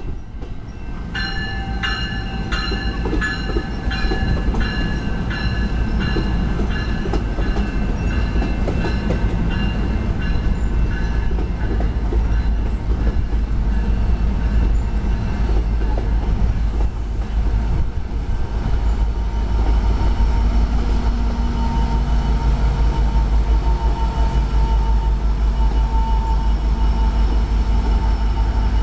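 Diesel or dual-mode commuter train running past: a steady, loud low rumble throughout. During roughly the first third a bell rings over it about twice a second, and later a steady higher tone sits on top of the rumble.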